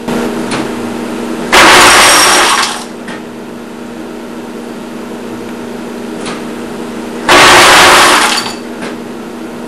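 DIY automatic cat feeder running: a steady motor hum, broken twice by a loud rattling rush of about a second each, about six seconds apart, as dry cat food is dispensed.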